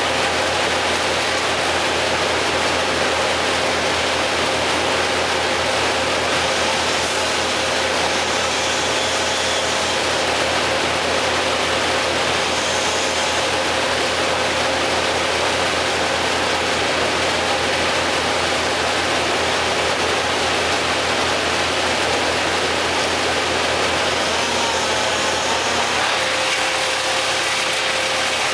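An engine running steadily at constant speed, with a steady whine and low hum and no revving.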